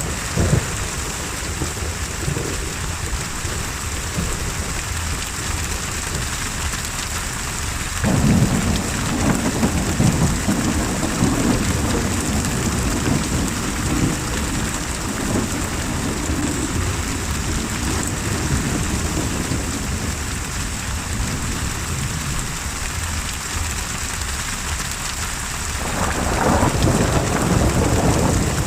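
Steady heavy rain with thunder. A roll of thunder comes in suddenly about eight seconds in and dies away over several seconds, and another builds near the end.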